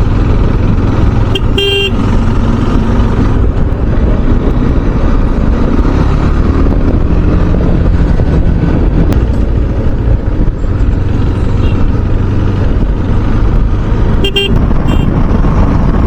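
Motorcycle riding along a highway: a steady low rush of engine and wind on the microphone, with short vehicle-horn toots about a second and a half in and again near the end.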